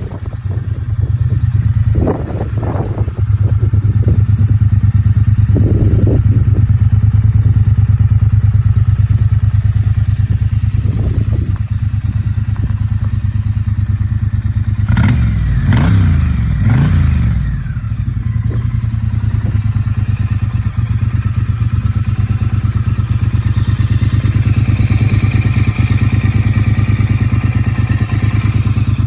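Triumph T100 parallel-twin engine running through a Zard X-pipe with the stock silencers, idling with a steady low rumble. It has a few short throttle blips and a cluster of quick revs about halfway through.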